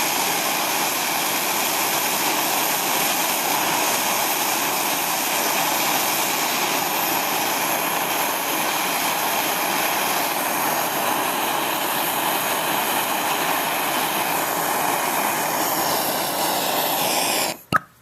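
MAPP gas torch burning with a steady hiss while heating an aluminum oil pan for brazing, then shut off suddenly near the end, followed by a single click.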